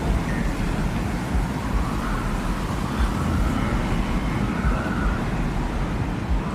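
Steady desert wind ambience: a low, continuous rumble of wind with a faint whistle that wavers up and down in pitch.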